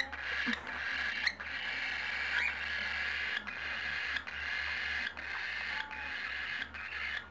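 Baby cockatiels giving a steady, hissy rasping begging call, broken by brief pauses about every second.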